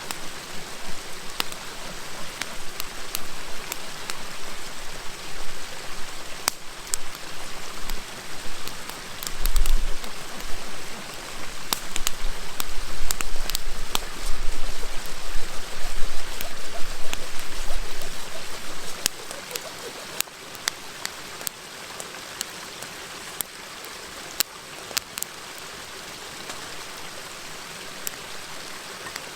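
Campfire crackling with many sharp pops and snaps over the steady rush of a flowing river. A low rumble swells in from about ten seconds in and fades near eighteen seconds.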